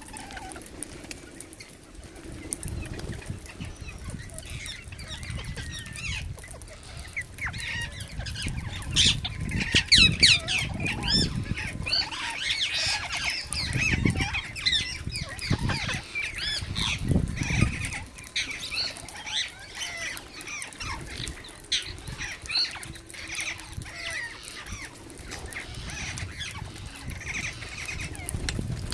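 Several pet parrots chattering and calling in many short, quick chirps and squawks, busiest in the middle, with a few low thumps mixed in.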